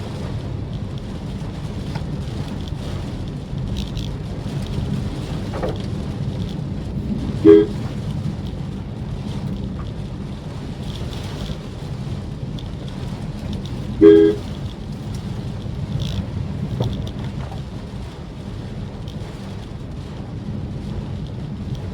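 Steady low rumble of a car driving, cut through twice by a short car horn toot, about seven and a half seconds in and again about fourteen seconds in; the horn toots are the loudest sounds.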